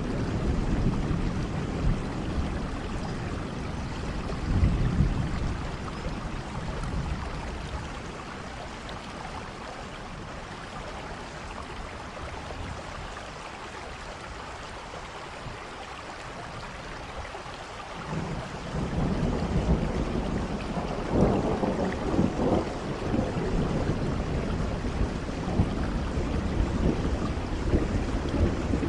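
Steady rainfall hissing, with a heavy low rumble underneath. The rumble fades out a few seconds in and swells back about two-thirds of the way through.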